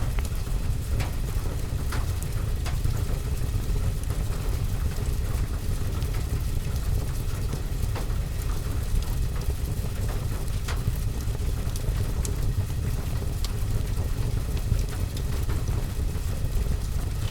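Rain on a window and roof with a deep steady rumble, mixed with a fireplace crackling in scattered sharp ticks and pops.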